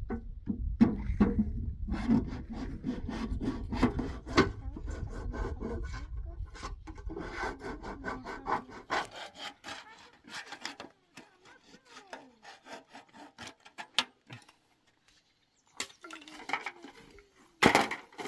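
Scraping and rubbing on wood, dense for the first nine seconds over a low rumble, then thinning to scattered clicks; a few loud knocks come near the end.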